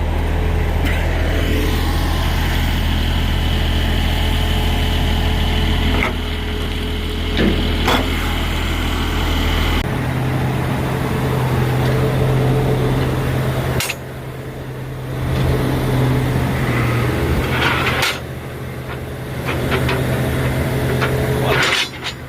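Heavy diesel equipment engines running steadily. About halfway through, the sound changes abruptly to a different engine's steadier, higher hum. A few knocks and clanks come and go.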